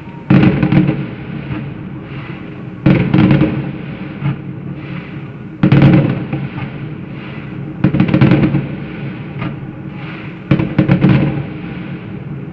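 Fireworks salute volleys: five loud bangs, one every two to three seconds, each followed by a crackling, echoing rumble as it dies away.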